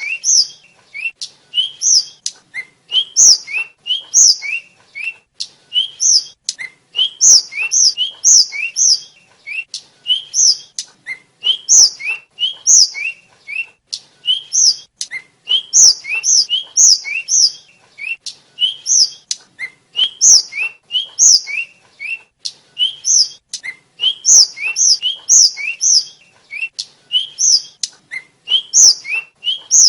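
Tledekan flycatcher (the sikatan kept as a songbird in Indonesia) singing: a rapid, continuous run of short, sharp chirping notes that sweep up and down in pitch, several a second, in repeated clusters.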